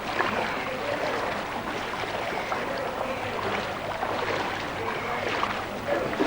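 Floodwater splashing and flowing, as around a boat, with faint voices mixed in.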